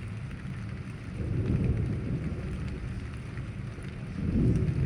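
Thunder rumbling low, swelling about a second in and again near the end, over steady rain.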